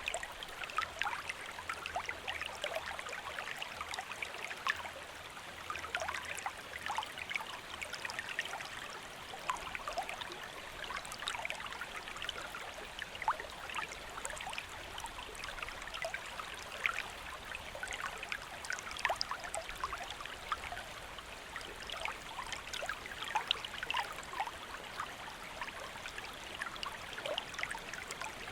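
Small stream flowing and babbling over rocks, a steady rush of water with many small splashes and trickles.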